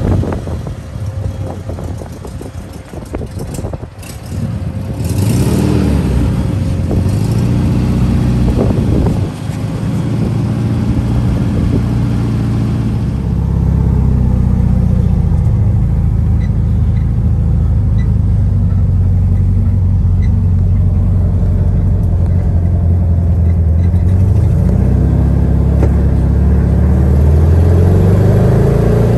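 Classic VW Beetle's air-cooled flat-four engine running, heard from inside the car while driving. The engine revs up a few seconds in, settles into a steady drone, and climbs again near the end as the car accelerates.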